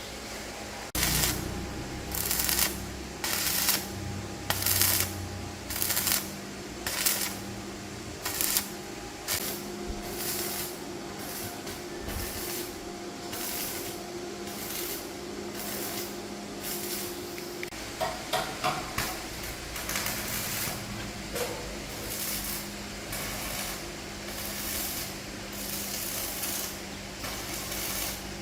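Workshop metalworking noise: repeated short hissing, scraping strokes, about one a second and bunched in places, over a steady low machine hum.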